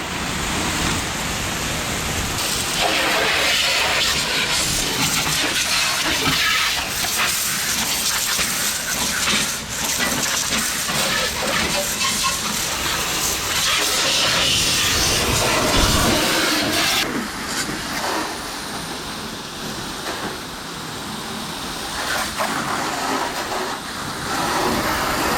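Pressure washer spraying water onto a car, a steady loud hiss that starts as the machine is switched on; its tone dulls about two-thirds of the way through as the spray shifts.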